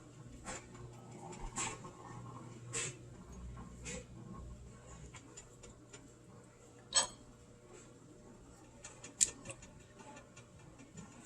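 Scattered light clicks and knocks of kitchen utensils and dishes being handled, two sharper knocks about seven and nine seconds in, over a steady low hum.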